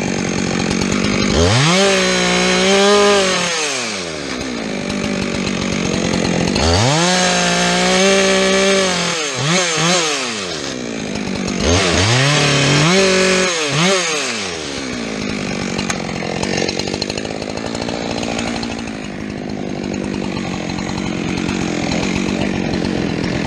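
Two-stroke chainsaw revved up three times, each time held at full throttle for about two seconds and then dropping back, idling between revs and through the end.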